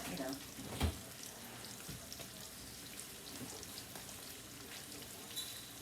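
Tilapia fillets frying in a pan, a steady faint sizzle and crackle, with a single knock a little under a second in.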